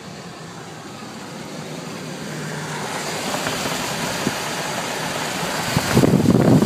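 Car driving on a snowy highway: steady road and engine noise that grows louder over a few seconds, then a louder rushing noise in the last second or so.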